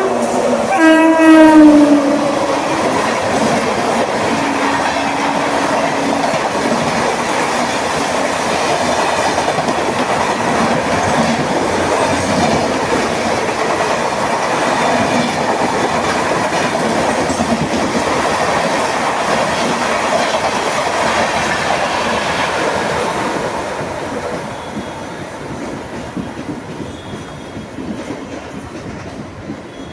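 Indian Railways express train passing at full speed. The locomotive's horn sounds and drops in pitch as it goes by in the first two seconds, then the coaches rush past with steady wheel clatter on the rails for about twenty seconds before the sound fades near the end.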